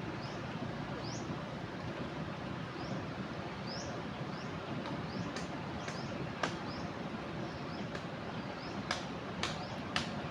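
Steady rush of a river in flood, with a bird repeating short rising chirps over it and a few sharp clicks in the second half.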